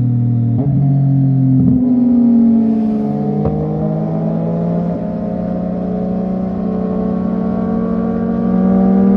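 Sport motorcycle with a loud aftermarket full-system exhaust running at highway speed. The note steps and breaks briefly about half a second and two seconds in, then climbs slowly in pitch as it pulls.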